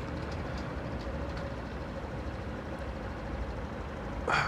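Honda CBF 125 single-cylinder engine ticking over at a standstill, a low steady hum, with a short burst of noise about four seconds in.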